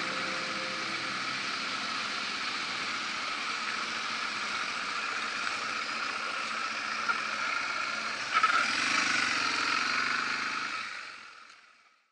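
Yamaha TW200's single-cylinder four-stroke engine running at low speed, under a steady hiss of wind and road noise at the helmet microphone. A short knock comes about eight seconds in, and the sound fades out near the end.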